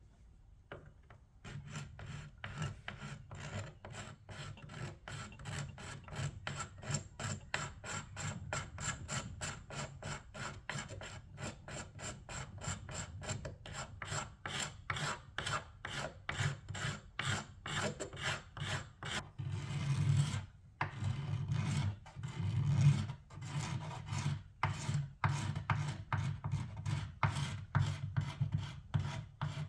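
Hand tool stroked quickly back and forth over wood, removing old paint and finish, about three strokes a second. The strokes start about a second and a half in, pause briefly past the middle, then come back longer and louder.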